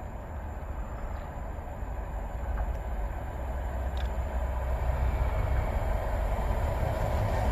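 Approaching train, a DBSO driving trailer leading with a class 37 diesel locomotive on the rear, its rumble building steadily louder.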